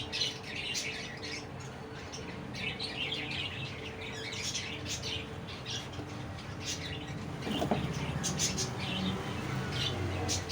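Many small birds chirping and twittering constantly in short high-pitched calls, over a faint steady low hum.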